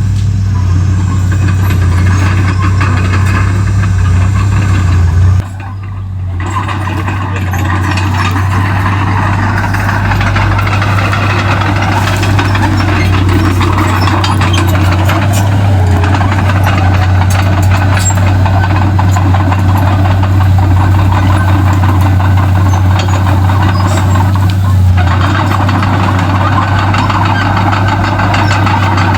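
Komatsu D31P bulldozer's diesel engine running steadily with a strong low hum. The level drops suddenly about five seconds in and builds back up over the next few seconds.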